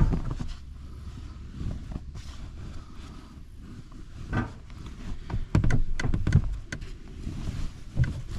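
Bedding being handled: a fitted sheet pulled over a mattress, with fabric rustling and soft knocks, over a low steady rumble. The handling sounds come in several clusters, busiest past the middle.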